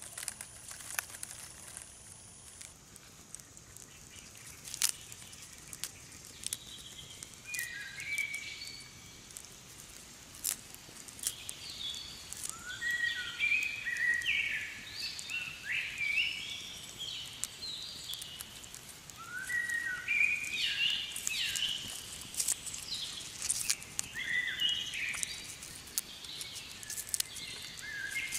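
Birds chirping: repeated short phrases of rising and falling whistles, starting about a quarter of the way in and going on through the rest. Scattered sharp clicks and ticks are heard between them.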